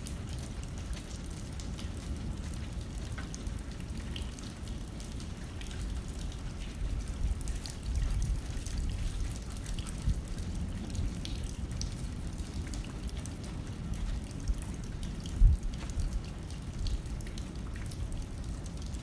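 Rain pattering on a window pane as scattered light ticks, over a low, gusting rumble of wind. There is a single louder low thump about fifteen seconds in.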